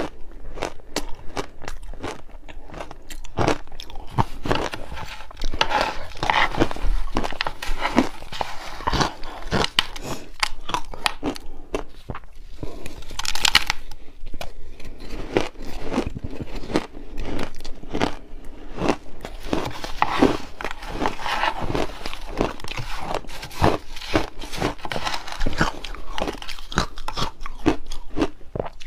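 A person biting and chewing a chunk of refrozen shaved ice: a rapid, continuous run of sharp crunches, with an especially loud crunch about halfway through.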